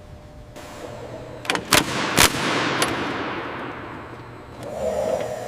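Several sharp bangs, four of them between about a second and a half and three seconds in, over a rush of noise that swells and slowly fades.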